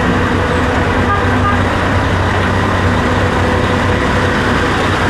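A motor running steadily, with a low hum under a dense, even noise.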